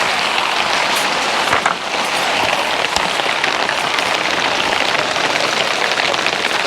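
Heavy rain falling, a dense, steady patter of many drops.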